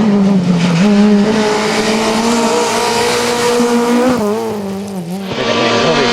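Rally car engine at high revs, held at a nearly steady pitch. The pitch wavers and the level dips briefly about four to five seconds in, then the engine note steadies again.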